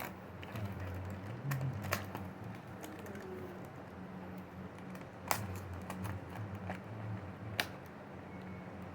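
Small plastic items being handled: scattered light clicks and taps, with three sharper clicks, over a steady low hum.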